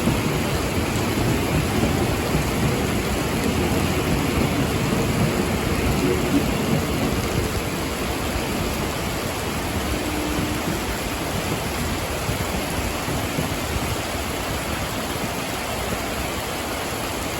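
Heavy tropical rain pouring down in a steady hiss, with a deeper rumble underneath that eases about halfway through.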